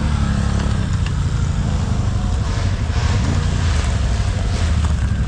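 ATV engine running steadily at low revs, its note dipping slightly in the first second.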